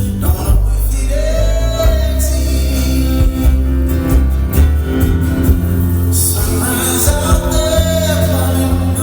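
A rock band playing live, with heavy bass and guitar under a male singer who holds two long notes, one about a second in and another in the second half.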